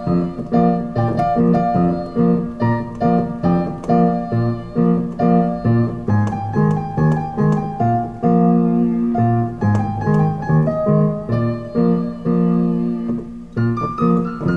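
Piano music: a steady, rhythmic run of repeated notes and chords, a few to the second.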